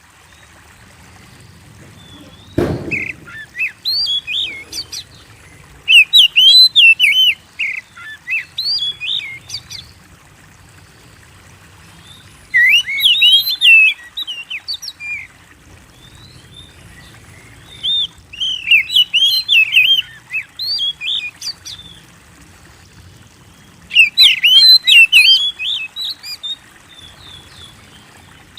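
Oriental magpie-robin (kacer) singing energetically, in loud phrases of rapid, varied whistles and chirps separated by pauses of a few seconds. A single dull thump comes about two and a half seconds in.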